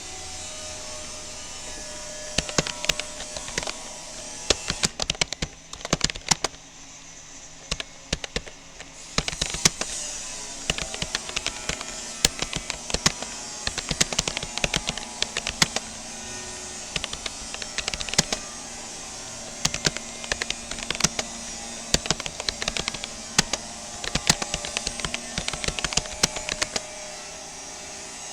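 Rapoo computer keyboard keys clicking in quick, irregular runs of touch typing, starting about two seconds in and broken by short pauses.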